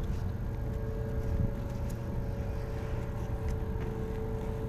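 Boat engine idling: a steady low rumble with a constant hum over it.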